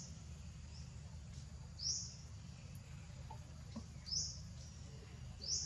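A small bird chirping: a short, high, rising note repeated about every two seconds (three strong ones and a couple of fainter ones), over a steady low background hum.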